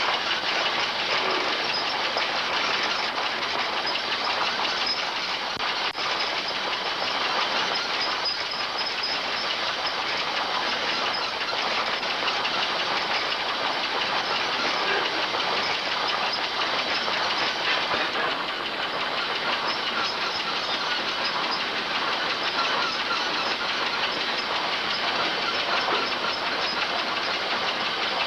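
Steam-powered machinery running: a steady hiss of steam over a continuous fine clatter.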